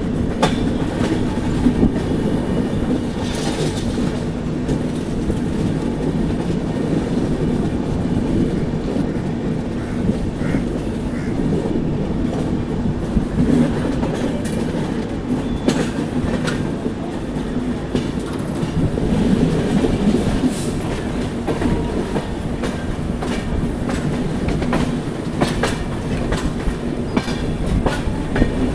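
Moving passenger train (Duronto Express) running along the track: a steady rumble with scattered sharp clicks of the wheels over rail joints.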